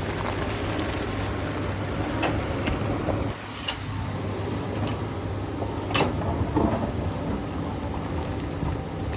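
Hyundai excavator's diesel engine running steadily, with a few sharp knocks; the loudest knock comes about six seconds in.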